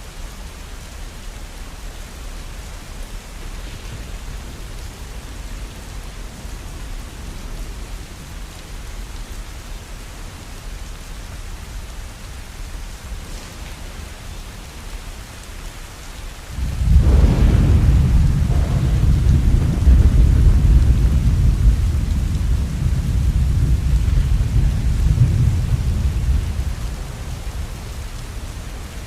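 Steady rain, with a sudden clap of thunder about two-thirds of the way through that rolls on as a deep rumble for about ten seconds before fading.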